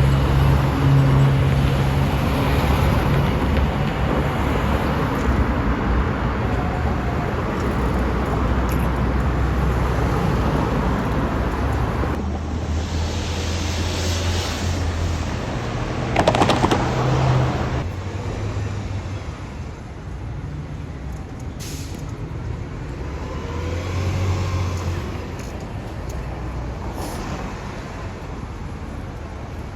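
Street traffic with a city bus's engine running and moving past. About halfway through there is a short, louder burst of hiss.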